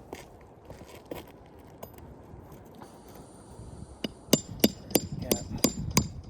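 A hand hammer striking repeatedly on the roof, with light taps and scrapes at first, then a run of sharp, ringing blows at about three a second starting around four seconds in, as on nails in the ridge cap shingles.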